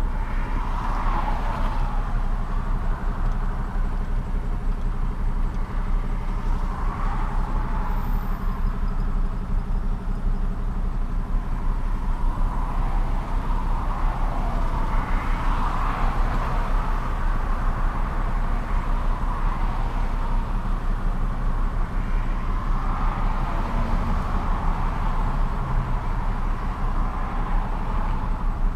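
Truck engine running steadily while driving, a low hum under road noise that swells and fades every few seconds.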